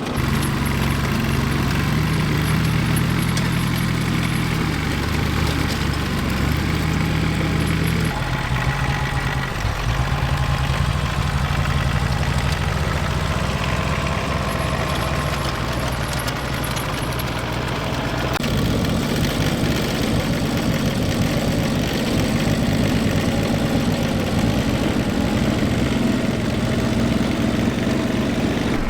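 An engine or motor running steadily, its pitch and tone shifting abruptly about eight seconds in and again near eighteen seconds.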